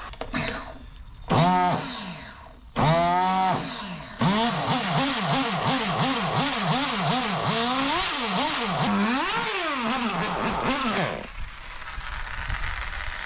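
Ielasi Dirt nitro RC engine with a Hypex 2108 tuned pipe being revved in short blips. There are two brief bursts that fall in pitch, then several seconds of quick, repeated rises and drops in revs. The engine noise stops suddenly about eleven seconds in.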